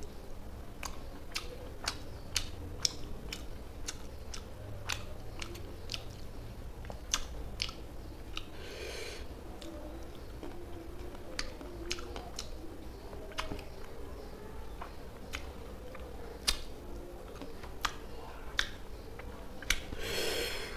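Close-up chewing and crunching of koi fish (climbing perch) in curry, eaten by hand, with irregular sharp clicks and mouth smacks picked up by a clip-on microphone. Two short hissing sounds come about nine seconds in and near the end.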